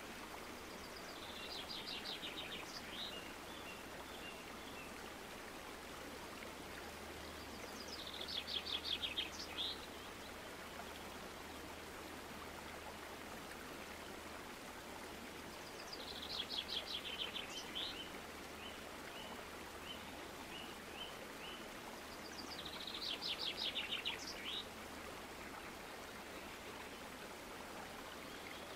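A songbird singing four times, several seconds apart, each song a rapid high trill lasting about two seconds, over a steady hiss and a faint low hum.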